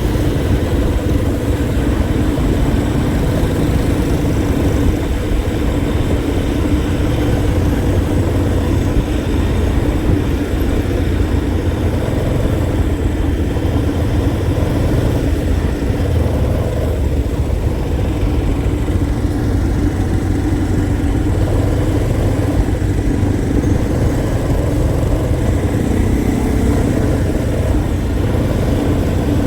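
A vehicle engine running steadily, a loud, even drone that holds the same pitch throughout.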